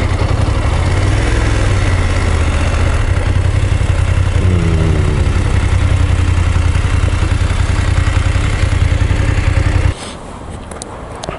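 BMW F850GS parallel-twin motorcycle engine running steadily, with brief shifts in pitch. It cuts off abruptly about ten seconds in.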